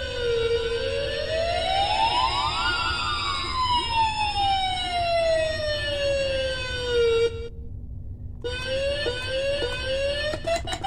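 Homemade electronic noise-maker pedals through a guitar amp: a siren-like tone sliding slowly down, up and down again, trailed by many echoing delay copies that cross one another. About seven seconds in it cuts out for about a second, then comes back as short tones stepping upward with rapid clicking near the end.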